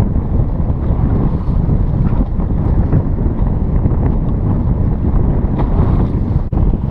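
Strong wind buffeting the microphone while a bass boat runs across the lake, a steady low rumble with a brief dropout about six and a half seconds in.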